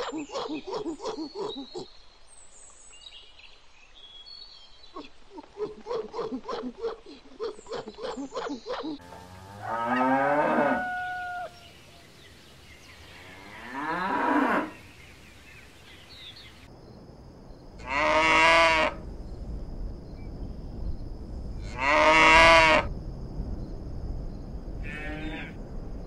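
Cattle mooing: five long moos about four seconds apart, starting about ten seconds in, the two near 18 and 22 seconds the loudest. Before them, a rapid run of short clicking sounds fills the first nine seconds.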